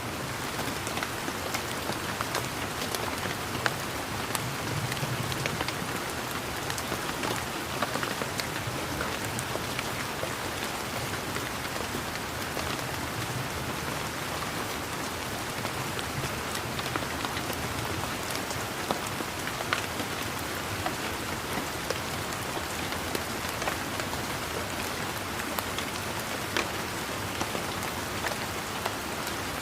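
Steady rain falling, a constant hiss with many scattered drops tapping close by.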